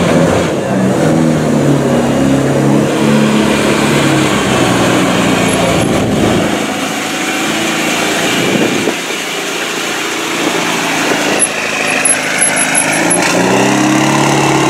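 Mitsubishi Lancer Evo VI rally car's turbocharged 2.0-litre four-cylinder engine idling steadily, louder again near the end.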